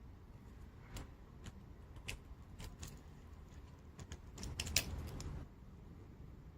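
Plastic gel pens clicking and clattering as they are handled: a few separate sharp clicks, then a quicker run of clatter about four and a half seconds in, the loudest near five seconds.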